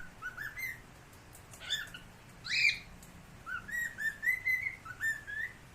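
Cockatiel singing: a string of short rising whistled notes, broken by two louder chirps early on, then a run of quick whistles near the end.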